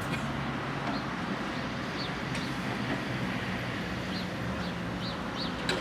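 Electric tram standing with a steady low hum over outdoor background noise, while a small bird chirps briefly several times.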